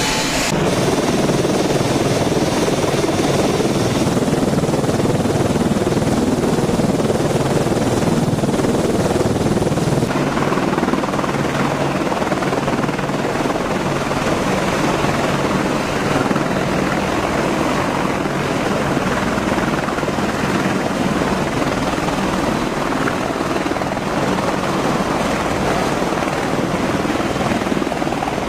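AH-64 Apache attack helicopter running: steady rotor and turbine noise with no break, shifting slightly in tone about four and ten seconds in.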